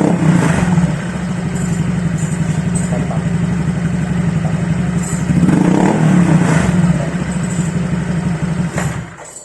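Honda Vario 125 scooter's single-cylinder four-stroke engine running through an ABF Racing Standar Racing V2 aftermarket exhaust, at idle with two throttle blips, one about half a second in and one around six seconds. The sound cuts off shortly before the end.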